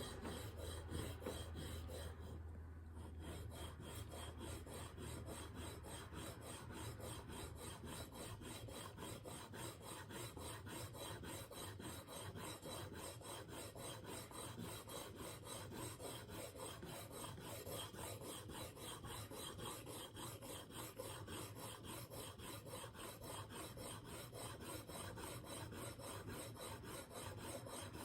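Edge of a steel single-bevel broadhead stroked over and over across a 4000-grit diamond plate in a KME sharpening jig, a light, even rasping that starts about three seconds in. The steady, smooth sound shows that the burr has broken off and the edge is being refined at the fine grit.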